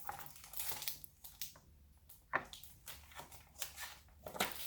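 Faint, irregular rustling and light clicks of a paperback picture book's pages being handled.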